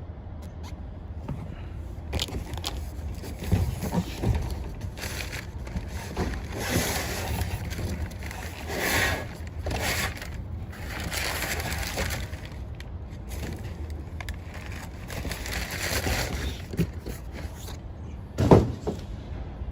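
Scraping and clattering as a condenser fan blade and motor are handled and fitted, over a steady low rumble, with one sharp knock near the end.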